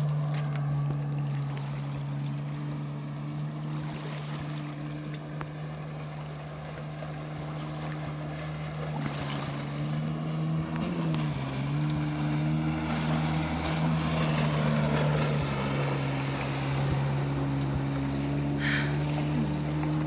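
Personal-watercraft engine running steadily over water and wind noise, its pitch dipping briefly and coming back about halfway through. A short high squeak sounds near the end.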